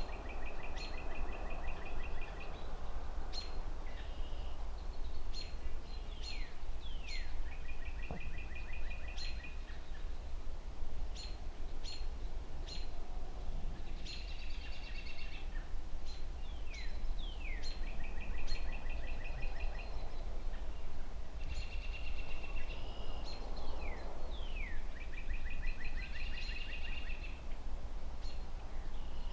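Songbirds chirping over a steady low rumble of distant city traffic. One phrase keeps repeating every few seconds: a few quick downward-sliding notes, then a rapid trill of about a second and a half. The background swells softly twice, once near the start and again about two-thirds of the way through.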